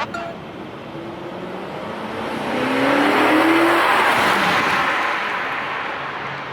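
A car accelerating past, its engine note rising in pitch over tyre and road noise. The sound swells to a peak just past the middle and then fades away.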